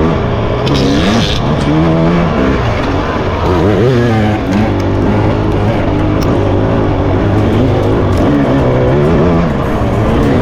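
Dirt bike engine revving up and down repeatedly as the bike is ridden hard on an enduro trail.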